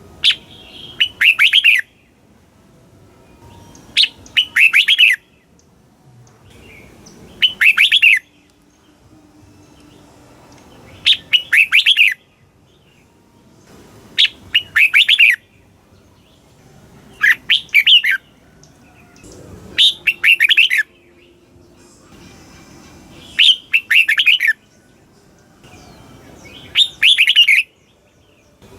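Red-whiskered bulbul singing: a short phrase of quick whistled notes, each opening with a sharp note, repeated about every three and a half seconds.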